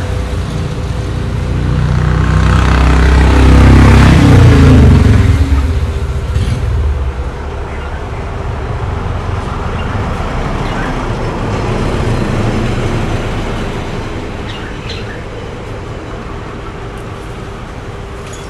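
Road traffic: a motor vehicle's engine swells loudly about four seconds in and fades away, over steady traffic noise.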